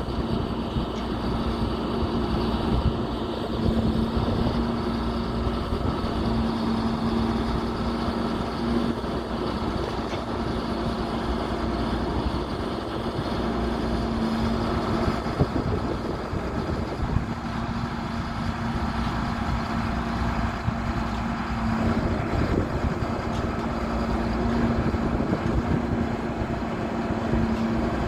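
Diesel engine of a 2003 Sterling Acterra crane truck running steadily, with a constant hum throughout.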